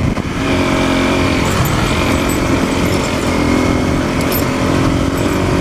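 Single-cylinder dual-sport motorcycle engine running at a steady speed while under way, its note holding even throughout.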